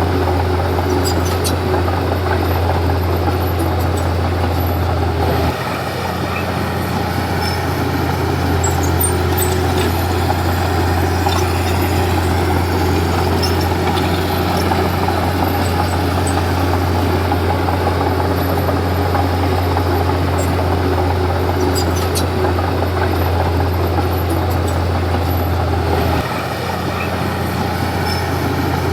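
Diesel engine of a Komatsu D31P bulldozer running steadily under work, its low note shifting slightly about five seconds in and again near the end.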